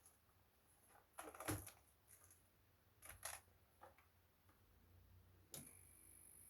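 Faint scattered clicks and taps, as of small hard parts being handled; about five and a half seconds in, a sharper click, followed by a faint steady high-pitched hum.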